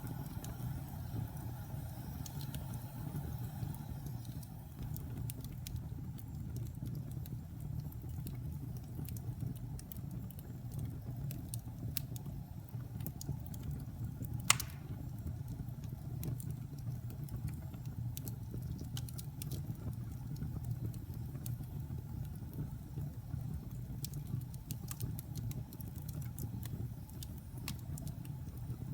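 Wood fire burning in a fireplace: a steady low rumble with scattered light crackles and one sharp pop about halfway through.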